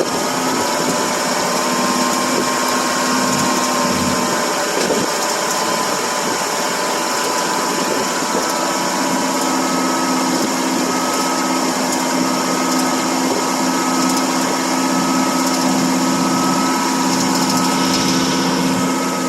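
1978 Pontiac Bonneville's 301 V8 running steadily just after a cold restart, with a steady whirring whine over the engine. The owner puts it down to the engine fan striking snow packed between the radiator, fan and shroud.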